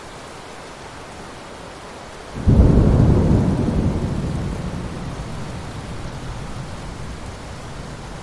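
Steady hiss of rain falling on ocean water. About two and a half seconds in, a sudden loud low rumble breaks in and fades slowly over the next few seconds.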